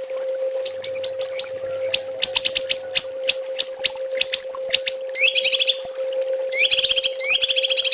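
Small songbird giving sharp, rapid 'tembakan' calls: quick falling whistled notes, some single and some in fast runs of four or five. Two fast buzzy trills come about five and six and a half seconds in. A faint steady hum runs underneath.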